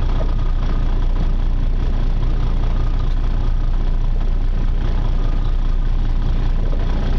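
Charter fishing boat's engine running steadily, an even low-pitched sound with no change in speed.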